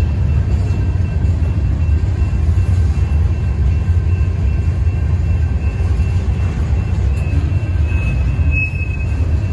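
Freight cars of a ballast train rolling steadily past, a constant low rumble of wheels on rail. A thin high squeal rides over it, sharpening briefly near the end.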